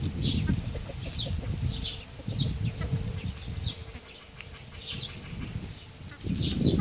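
Birds chirping: short, high, falling chirps about twice a second, over a low rumble of wind on the microphone and a faint steady hum that fades out near the end.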